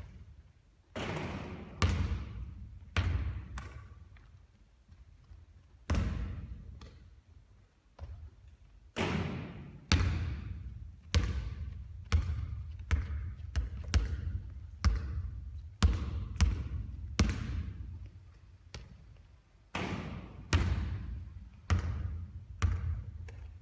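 Basketballs bouncing on a hard court floor during three-point shooting practice. Sharp impacts come about once or twice a second, sometimes in quick runs of several bounces, and each one echoes away.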